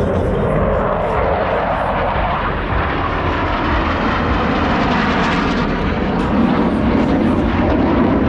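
Jet noise from Blue Angels F/A-18 Super Hornets flying overhead, a loud continuous roar whose pitch sinks lower over the last few seconds as the jet moves past.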